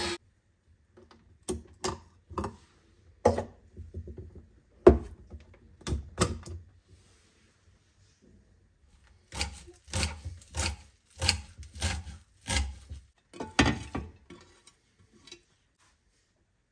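Kitchen utensils and containers being handled and set down: a series of irregular knocks and light clatters, the sharpest about five seconds in, with a short pause around the middle.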